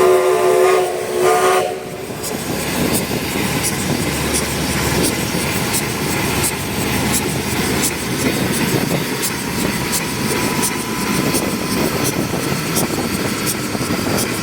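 Steam locomotive whistle sounding two short blasts in the first two seconds, followed by the steady noisy rumble and hiss of the steam train, with scattered sharp clicks.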